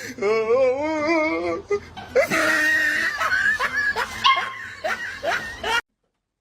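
A wavering, warbling voice in the first second and a half, then laughter; the sound cuts off suddenly about half a second before the end.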